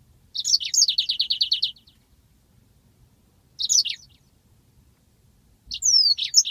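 Yellow-fronted canary (Mozambique canary) singing: three high phrases of quick chirps and slurred notes, the first and last running into a rapid trill, with short pauses between phrases.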